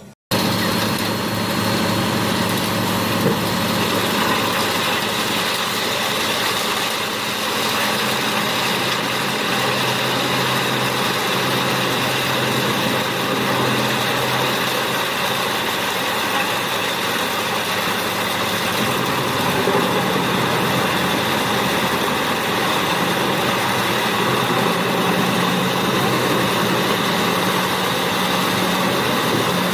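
Heavy wood chipper's diesel engine running steadily at a constant pitch, cutting in suddenly just after the start.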